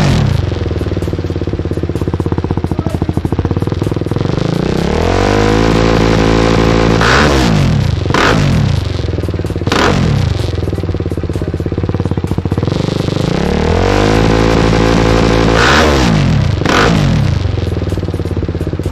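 BMW motorcycle engine running through a newly fitted M1 Silver aftermarket exhaust, idling steadily and revved up twice, each time climbing slowly and dropping back, with a quick throttle blip after each climb.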